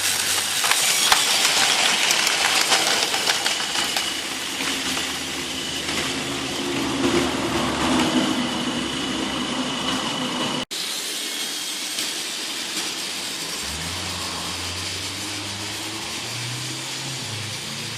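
Battery-powered Trackmaster toy locomotive running along plastic track: a steady motor-and-gear whirr with rattling from the wheels and track. The sound breaks off for an instant about ten and a half seconds in, then carries on a little quieter.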